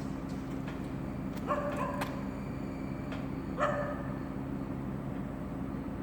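A dog giving two short barks, about two seconds apart, over a steady low mechanical hum.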